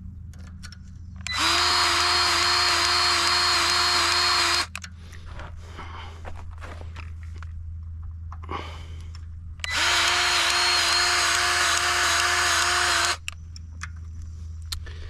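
Battery-powered grease gun motor running in two steady bursts of about three seconds each, with a constant whine, as it pumps grease into a fitting on a stump grinder. Light handling clicks come between the bursts.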